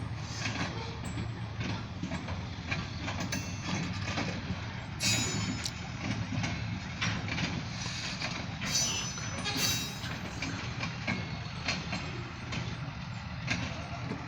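Freight train cars rolling past on the rails: a continuous rumble with wheels clattering and clicking, and brief high-pitched squeals a few times.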